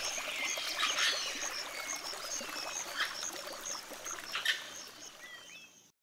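Wild birds calling together: short sweeping whistles over a high note repeated steadily, with a few brief louder bursts. The sound fades out near the end.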